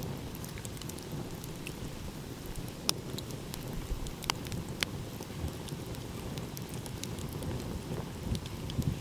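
Wood fire crackling, with scattered sharp pops, the loudest about three and four and a half seconds in, over a steady low rush of ocean waves.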